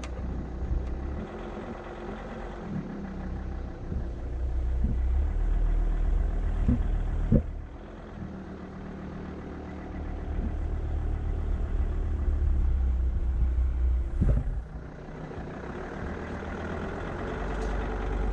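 Car engine running with a steady low rumble that swells and eases a few times.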